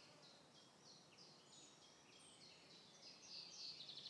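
Faint birdsong: a small bird repeating short high chirps, growing louder and quicker about three seconds in.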